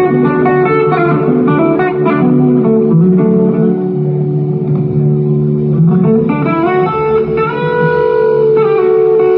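Live band music led by electric guitar, playing sustained notes over bass. One guitar line glides up in pitch about six seconds in.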